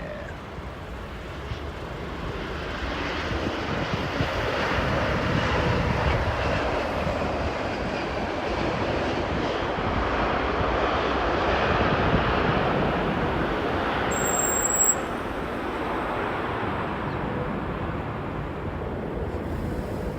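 Jet airliner engines passing by, the rumble swelling over the first few seconds, holding loud, then easing off in the second half.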